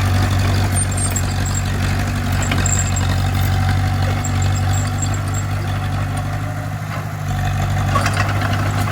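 Bulldozer's heavy diesel engine running steadily with a deep, even hum. It eases off briefly about seven seconds in, then picks back up.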